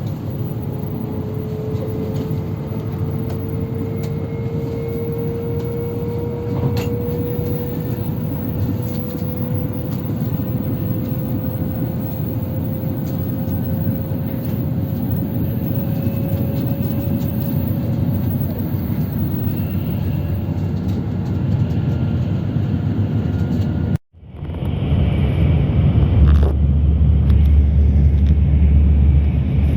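Shinkansen bullet train running, with a faint whine that rises slowly in pitch over the first eighteen seconds or so. About 24 seconds in the sound breaks off abruptly and gives way to a louder, deeper rumble.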